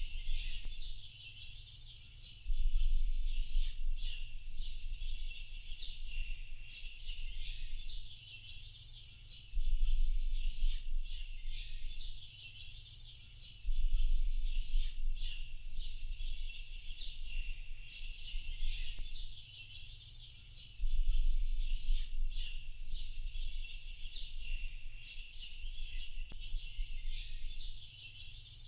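A chorus of many small birds chirping and singing without pause in high, overlapping calls. A low rumble swells up and fades away four times, each lasting a few seconds.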